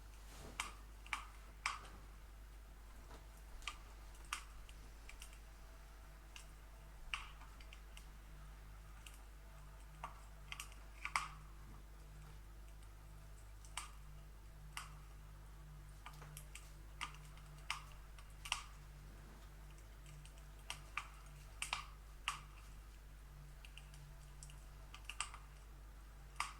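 Wood fire crackling in a fireplace: irregular sharp pops and snaps, about one or two a second and uneven in strength, over a faint steady low hum.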